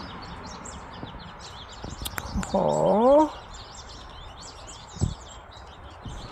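Small songbirds chirping busily in the background, with a couple of faint clicks and a low thump.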